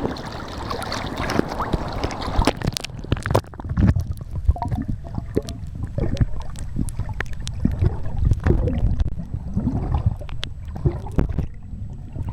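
Water sloshing and splashing against the camera for about the first three seconds, then muffled underwater sound: a low rumble with bubbling and scattered clicks.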